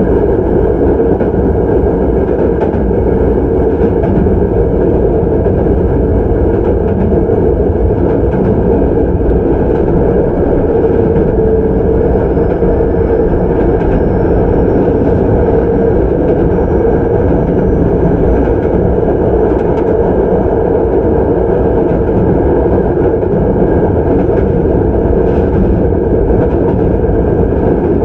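Hankyu 9300 series electric train heard from inside the car, running steadily at speed: an even rumble of wheels on rail, with a few faint knocks and a faint high whine that rises slightly through the middle.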